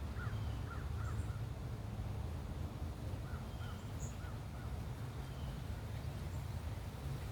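Short, soft bird call notes, a scattered handful of them, over a steady low outdoor rumble.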